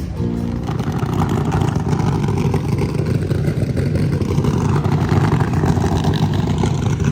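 Steady low rumble of a vehicle under way, with a faint, constant engine tone beneath it; some music fades out just after the start.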